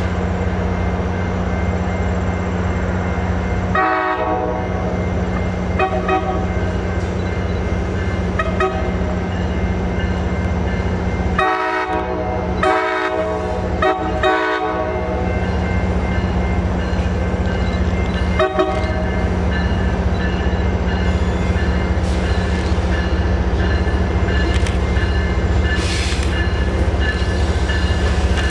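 Approaching diesel train, its engine running with a steady low drone while the horn sounds in short blasts: single ones in the first few seconds, a quick run of three or four near the middle, and one more a few seconds later. Sharp clicks come in near the end as it draws closer.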